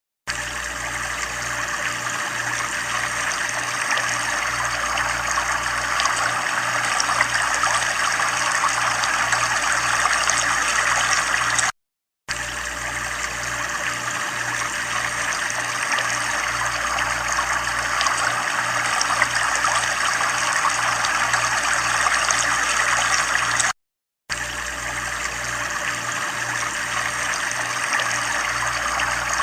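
Steady running water, a continuous trickling rush. It cuts out for a split second twice, about 12 seconds apart, where the recording loops.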